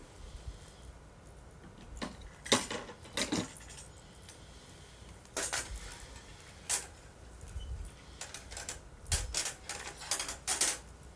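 Wood bonfire crackling, with sharp, irregular pops and snaps every second or so.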